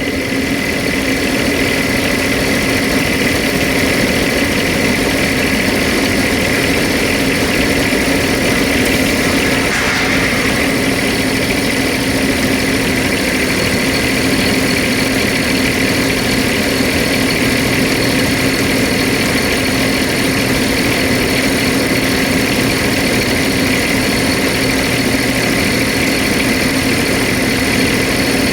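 A 2014 Thermo King T-1000 truck refrigeration unit running at a steady idle on its small diesel engine, with a constant high whine over the engine's hum.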